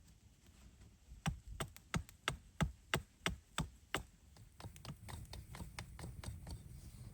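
A run of sharp taps or knocks, about three a second, followed by faster, lighter taps, with a low rumbling noise underneath from about five seconds in.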